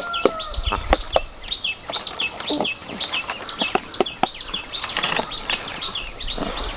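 Birds chirping in rapid, continuous short notes, with scattered sharp clicks and rustles mixed in.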